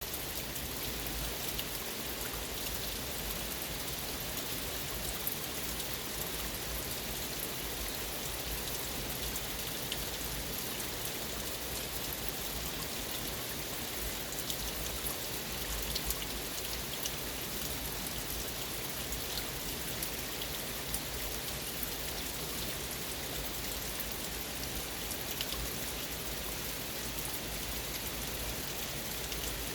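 Waterfall: water falling and splashing in a steady, even hiss, with faint small splashes and drips dotted through it.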